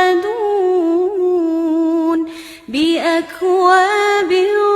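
A girl's voice reciting the Quran in a melodic, chant-like style, holding long, slightly wavering notes. There is a quick breath about two and a half seconds in before the next phrase begins.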